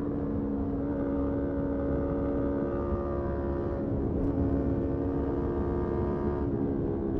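Motorcycle engine running at a steady speed while riding, its pitch holding nearly level with small shifts about four seconds in and again near the end, over a low rumble of road and wind noise.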